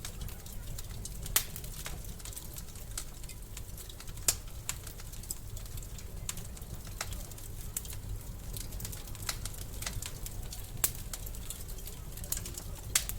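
Wood fire crackling in a fireplace: irregular sharp snaps and pops over a low steady rumble, with a few louder pops standing out.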